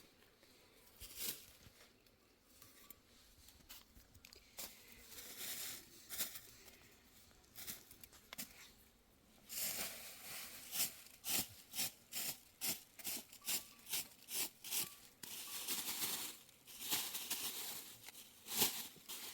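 Rustling and tearing sounds of material being handled. Partway through there is a run of quick rasping strokes, about two a second.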